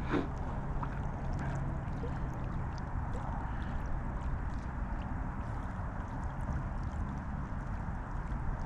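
Steady wind and water noise with a low steady hum underneath and scattered faint clicks.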